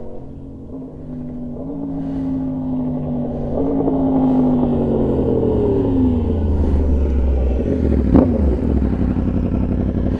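Yamaha R1's crossplane inline-four through an SC-Project CR-T exhaust, growing louder as the bike approaches and then dropping in pitch as it slows. A loud low rumble follows close by, with one sharp crack about eight seconds in.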